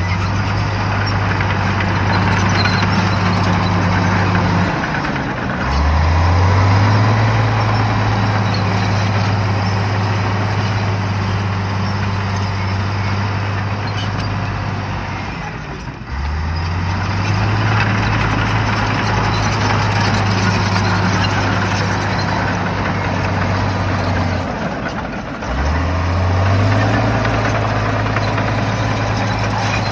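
Shantui bulldozer's diesel engine running at working revs. Three times, about ten seconds apart, the revs drop briefly and then climb back up.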